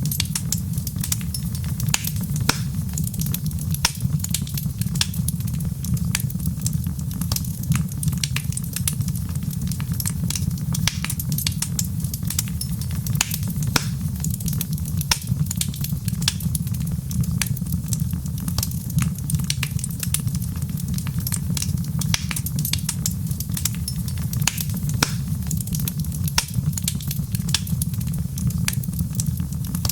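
Wood fire crackling steadily: many sharp irregular pops and snaps over a low, even rumble of the flames.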